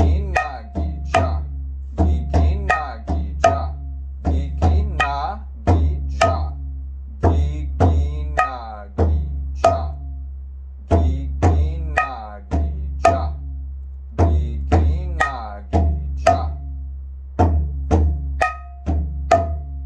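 Mridanga (khol) drum played solo in a steady, repeated rhythmic pattern: deep open strokes on the big bass head mixed with sharp, ringing 'nak' (chutki) finger strokes on the small head, a few bass notes sweeping in pitch as they ring.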